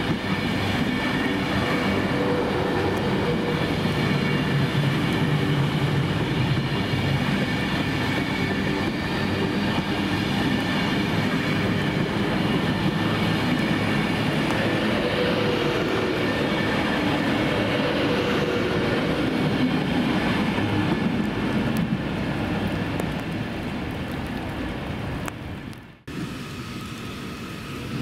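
A train moving through the station: steady running noise with several steady whining tones. It fades over a few seconds, then cuts off abruptly about 26 seconds in, giving way to a quieter, different background.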